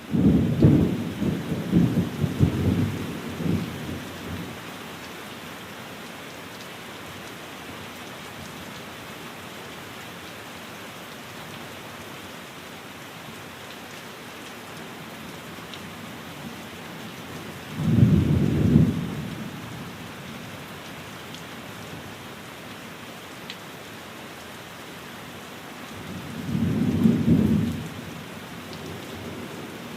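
Steady rain falling, with three low rolls of thunder: a longer one at the start, another about eighteen seconds in, and a third near the end.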